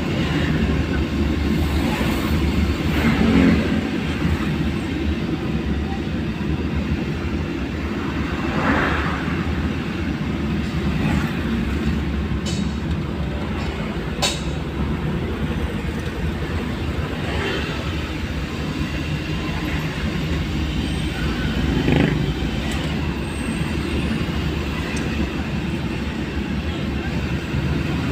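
Steady low rumble of a vehicle travelling on a wet road in heavy rain, with a few brief, fainter sounds over it.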